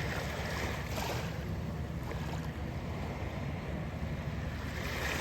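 Small waves washing onto a beach, one swell hissing in about a second in and another building near the end, over a steady low rumble of wind on the microphone.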